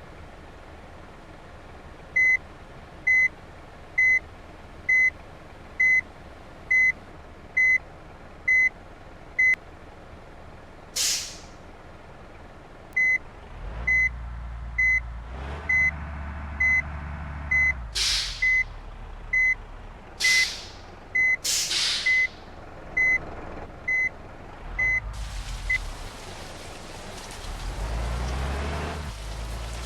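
A heavy vehicle's reversing beeper sounding about once a second, pausing for a few seconds partway through, with several sharp air-brake hisses and a low diesel engine rumble joining in. A steady hiss sets in near the end.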